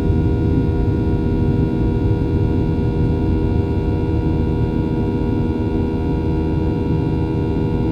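The CFM56-7B turbofan engines of a Boeing 737-800, heard inside the passenger cabin, running steadily. There is a low rumble with several steady whining tones over it.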